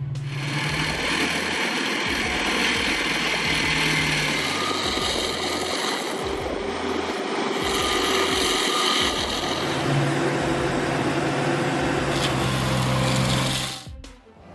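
Stump grinder running steadily, its engine droning under a harsh, dense grinding noise. The sound cuts off suddenly near the end.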